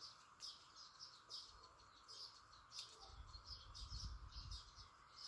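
Faint, rapid high-pitched bird chirping, many short calls in quick succession over a steady hiss. A low rumble joins from about three seconds in.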